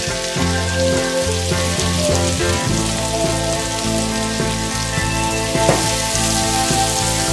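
Chopped onions sizzling in melted butter in a frying pan, a steady crackling hiss, with instrumental background music over it.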